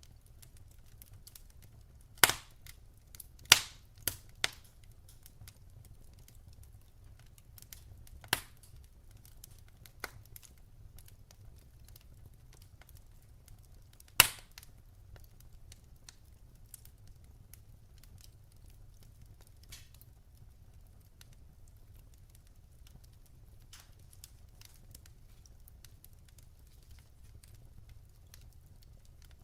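Wood fire burning in a fireplace: faint steady crackling with a low rumble, broken by sharp pops from the burning logs, a cluster of several in the first few seconds and a single loud one about halfway through.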